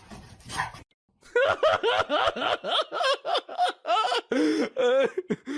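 A person laughing hard in a quick run of short, high-pitched bursts, starting about a second in and dropping lower in pitch near the end.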